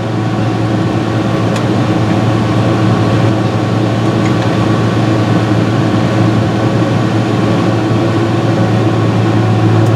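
John Deere 6068 six-cylinder diesel, running without a turbo, in a steady drone with a strong low hum while it warms up toward the thermostat's opening temperature.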